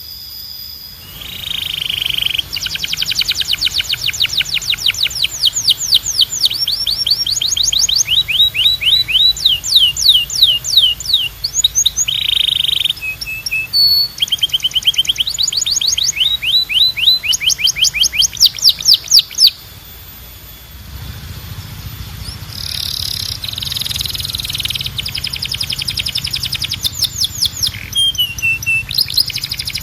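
Male canary singing: long rolling tours of rapidly repeated sweeping notes, with phrases shifting in pitch and speed. There is a brief lull about two-thirds through, after which the song resumes over a low hum.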